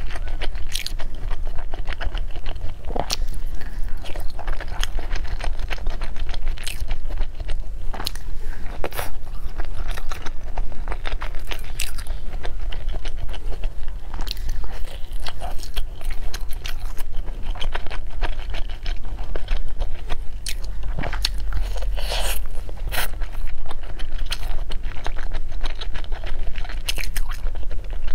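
A person eating close to the microphone: chewing and biting with many wet mouth clicks and smacks at irregular intervals, including bites into a rice ball.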